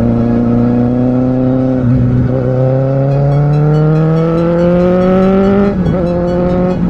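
Kawasaki Z750R's inline-four engine pulling under acceleration. The revs climb steadily, with a brief drop about two seconds in and another near the end as it shifts up a gear.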